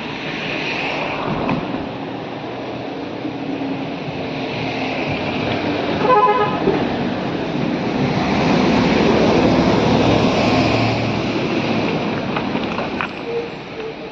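Motor vehicle or machine engine running, swelling louder in the second half, with a short horn beeping in quick pulses about six seconds in.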